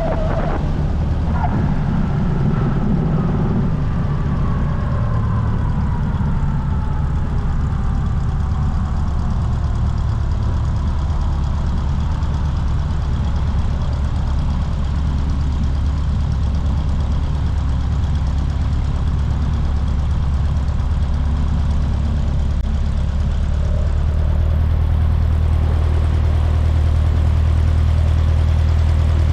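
Cessna 150's Continental O-200 four-cylinder piston engine running steadily at low power, with a faint falling whine in the first ten seconds. The engine gets a little louder about 24 seconds in.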